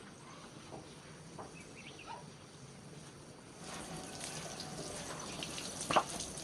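Water running, growing louder about halfway through, with a sharp click near the end.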